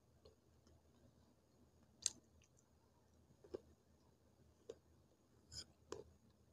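Quiet chewing of a dry, hard clay stick, with about five short crisp crunches and clicks, the loudest about two seconds in.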